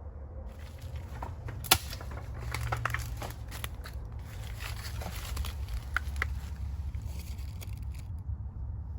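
Footsteps crackling and crunching through dry leaf and bamboo litter, irregular small snaps with one sharp snap a little under two seconds in, over a low steady rumble.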